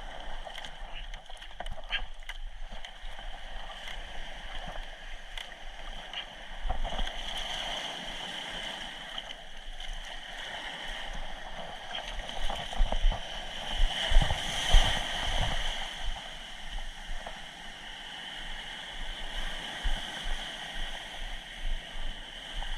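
Surf and paddle splashes around a small boat being paddled hard through waves toward shore, with wind on the microphone. A run of heavier thumps and splashes comes about two thirds of the way in, as waves hit the boat and it takes on water.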